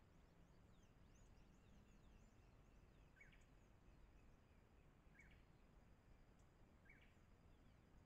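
Faint wild birdsong: three short, sharp calls about two seconds apart, over thin, scattered high chirping and a low steady background rumble.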